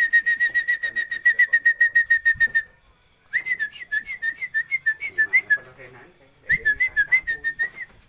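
A bird calling close by: a fast run of whistled notes, about eight a second on one pitch, then two shorter bursts of notes that jump up and down.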